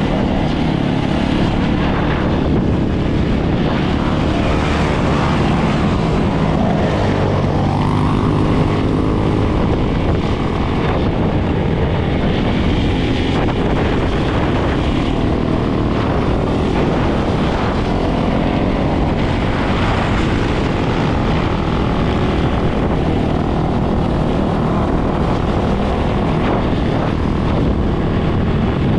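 Dirt bike and ATV engines running loud and steady, with the revs rising and falling now and then.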